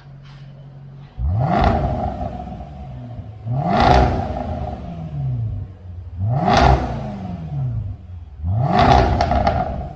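Range Rover SVR's 5.0-litre supercharged V8 breathing through a full FI exhaust system (catback plus downpipe): idling, then blipped four times about every two and a half seconds. The pitch climbs and falls back with each rev.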